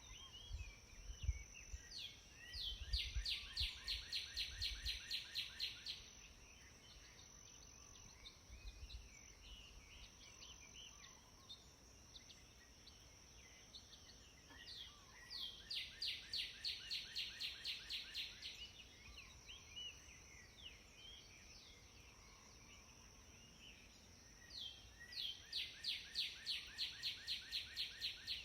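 A bird singing a fast trilled phrase of about a dozen evenly spaced notes, repeated three times roughly ten seconds apart, with scattered short chirps between phrases. A few low bumps are heard in the first few seconds.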